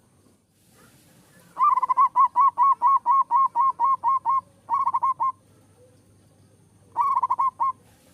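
Zebra dove (perkutut) singing: a fast run of about a dozen cooing notes, about four a second, then two shorter bursts of four or five notes.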